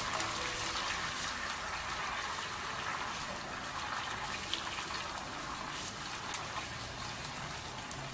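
Garlic and ginger sizzling in hot oil and boiling honey: a steady frying hiss with scattered small pops.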